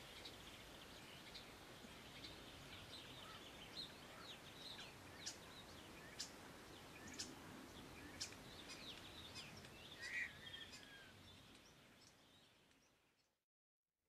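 Faint outdoor ambience with small birds chirping and calling over a soft background hiss, one call louder than the rest about ten seconds in; the sound fades out near the end.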